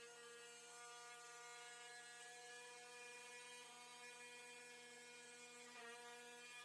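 Near silence with a faint, steady electrical hum rich in overtones; its pitch shifts slightly near the end.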